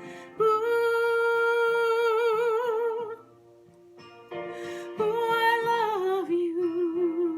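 Wordless vocalising in a song: a singer holds a long high note that gathers vibrato, breaks off, then holds a second note that slides down about six seconds in to a lower note with vibrato, over soft accompaniment.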